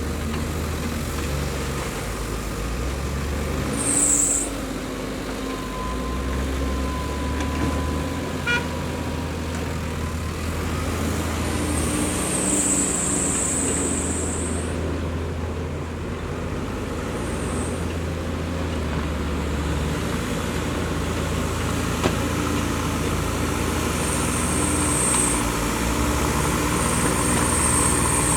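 Heavy diesel machinery running steadily: the low engine drone of a loader and dump trucks working sand, with short high-pitched squeals several times.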